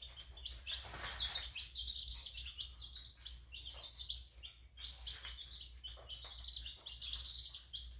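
A brood of young chicks, Korean native and black-boned ogolgye chicks, peeping without pause: many short, high cheeps overlapping one another, with a few soft taps among them.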